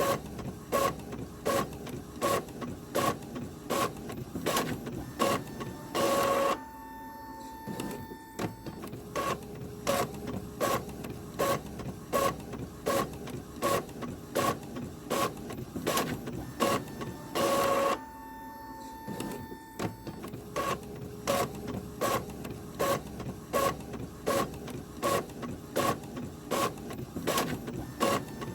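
Printer printing: a steady rhythm of mechanical clicks about twice a second, broken twice by a short loud burst and then a couple of seconds of quieter humming before the clicking starts again.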